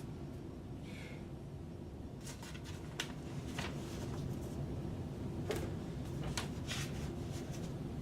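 Low steady hum from an electric guitar amplifier, with a few faint clicks and taps of the guitar being handled between songs.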